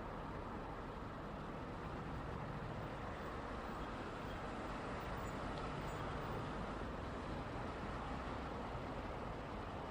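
Steady hum of moving road traffic, a continuous wash of tyre and engine noise that swells a little midway.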